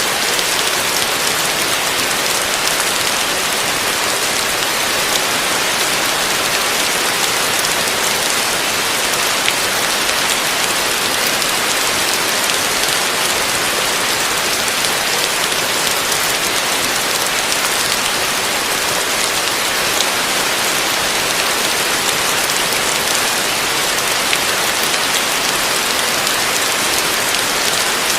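Heavy rain falling steadily: an even hiss, strongest in the upper range, with occasional sharper drop ticks.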